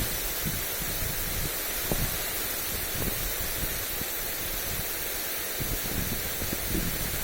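Lawn sprinkler spray hissing steadily as the water falls on grass, with wind gusting against the microphone in low, uneven rumbles.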